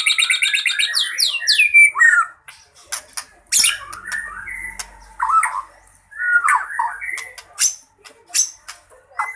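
White-rumped shama singing a varied song: a fast descending trill that ends about a second in, then sharp clicking chips mixed with short whistled notes that slide up and down.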